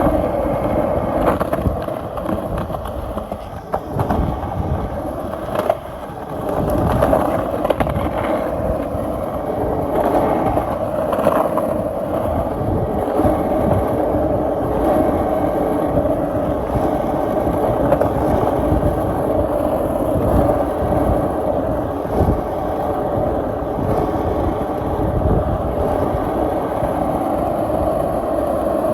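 Skateboard wheels rolling over pavement: a continuous rumbling roll with a few short knocks from cracks and joints, easing briefly about four to six seconds in.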